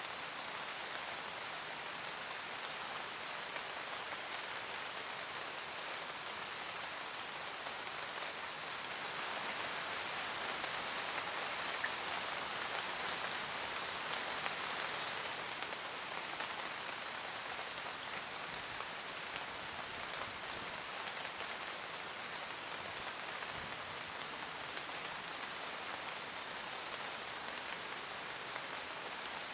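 Steady forest rain: a dense patter of raindrops with no breaks, growing a little louder for several seconds about a third of the way in.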